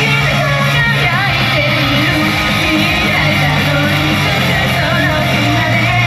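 An idol group's live performance: a loud pop-rock song with guitar and a steady bass line under sung vocals.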